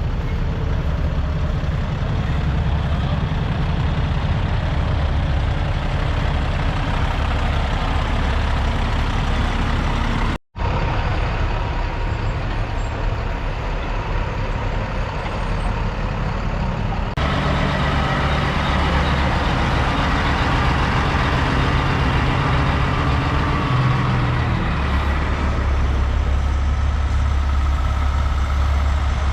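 Diesel semi-truck engines idling, a steady low hum, cut off for a moment about ten seconds in and changing in tone about seventeen seconds in.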